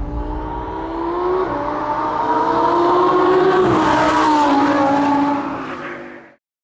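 Lamborghini Huracán's V10 engine running hard, its note climbing steadily in pitch and growing louder, dropping back a step twice, then fading out near the end.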